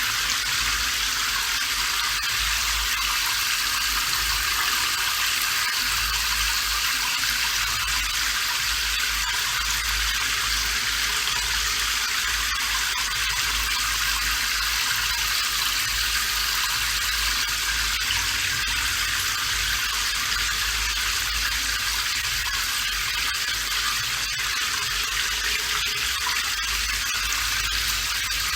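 Steady rain: an even hiss of dense drops with a low rumble underneath.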